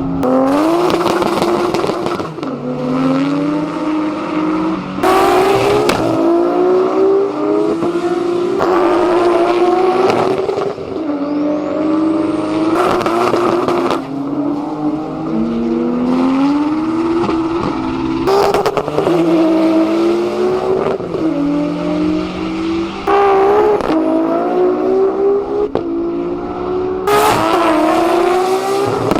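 Performance car engine revved again and again, its pitch climbing and falling back about seven times, with a short loud burst of rushing noise at or just after each peak.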